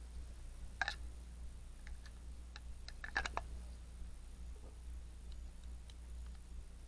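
A single sharp click, then a quick cluster of three or four clicks a couple of seconds later, with a few faint ticks between, over a steady low hum.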